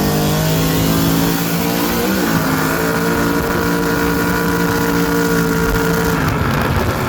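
Engine running at full throttle under hard acceleration, with a gear change about two seconds in, then holding high revs.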